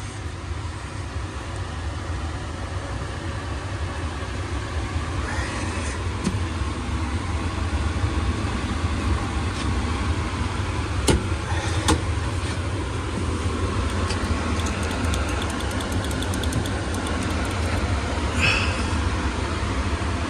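Steady low mechanical hum of a running motor, with two sharp clicks about halfway through and a short run of rapid ticking soon after.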